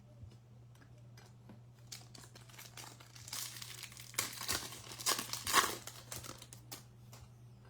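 Baseball card pack wrapper being crinkled and torn open. Scattered light rustles and clicks come first, then a dense stretch of crinkling and tearing starts about three seconds in and lasts a few seconds.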